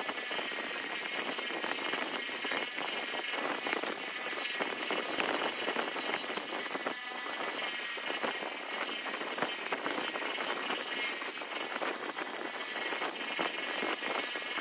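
A small high-speed motor running steadily with a dense, rattling, scraping texture.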